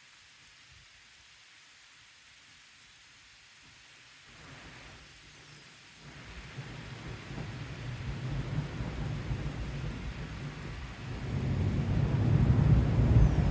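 Thunder rumbling during a thunderstorm, over a faint rain hiss. The rumble starts about six seconds in and builds, loudest near the end.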